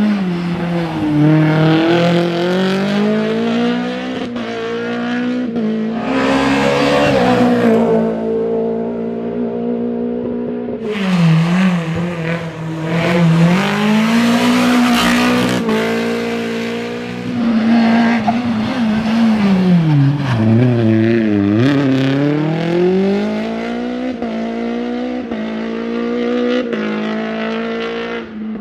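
Renault Clio Williams rally car's 2.0-litre sixteen-valve four-cylinder engine revving hard. Its pitch climbs and drops again and again as it goes up through the gears and lifts off, with several bursts of rushing noise along the way.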